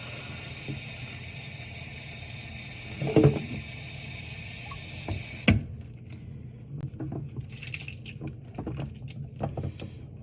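Kitchen sink tap running steadily, then shut off with a knock a little over halfway through. After it stops come faint clicks and drips as wet dishes are handled in the sink.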